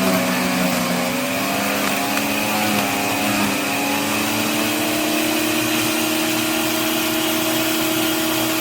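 The electric motor of a 15-amp corded wood chipper running with a steady whine while shredding branches. Its pitch sags briefly around the start, as under load, then holds steady.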